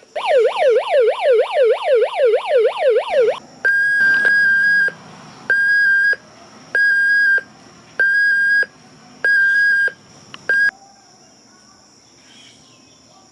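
Electronic siren of a 1996 Hess Emergency Truck toy. It gives a fast up-and-down yelping wail for about three seconds, then a steady high beep repeated five times, each about a second long, ending with a short blip and stopping a few seconds before the end.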